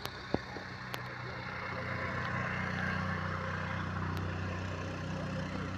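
A vehicle engine idling steadily under a broad hiss, with a few sharp clicks in the first second.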